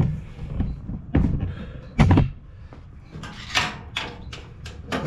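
A few separate metal clanks and knocks from work on a riding mower's cutting deck, the loudest about two seconds in.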